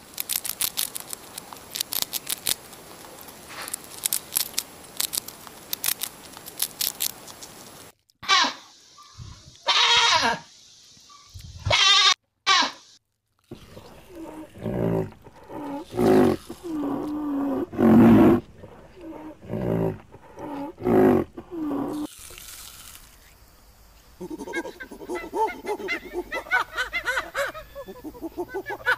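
Several different animals heard one after another. First comes rapid clicking, then a few short shrill calls, then a run of low pitched calls, and near the end busy, high chattering.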